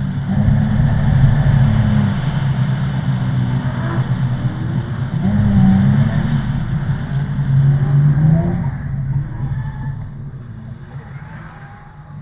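Drift ute's engine revving hard, its pitch climbing and dropping again and again as the car is driven sideways, then fading over the last few seconds as the car moves off.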